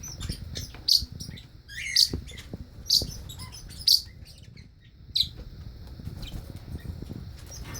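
Pet bird giving short, sharp chirps about once a second, five in all, with a softer chattering call between the second and third.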